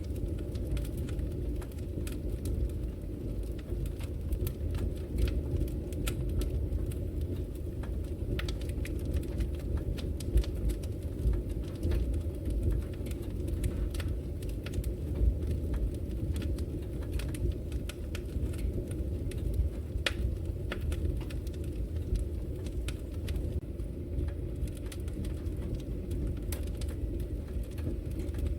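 Fire burning in a fireplace: a steady low rumble with frequent sharp crackles scattered through it.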